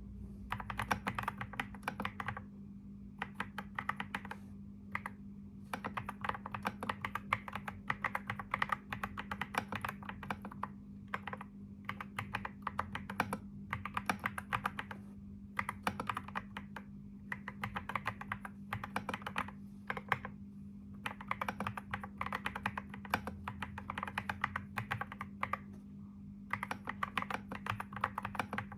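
Computer keyboard being typed on in quick runs of keystrokes, broken by short pauses of about a second, over a steady low hum.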